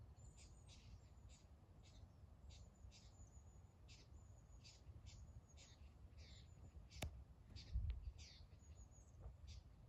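Faint, quick high chirps of small birds, repeating every fraction of a second, over a low rumble. A sharp click about seven seconds in and a low bump just after.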